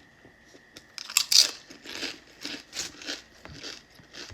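Close-up crunching and chewing of crisp chips, a quick run of sharp crunches about three a second, starting about a second in.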